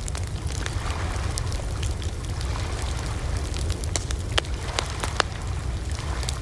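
Campfire crackling: irregular sharp pops and snaps over a steady low rumble, with a few louder pops about four to five seconds in.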